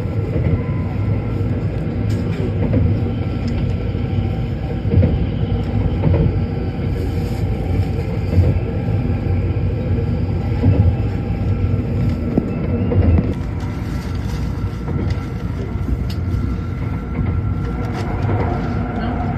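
Shinkansen high-speed train running: a steady rumble with a few faint steady tones, easing slightly about two thirds of the way through.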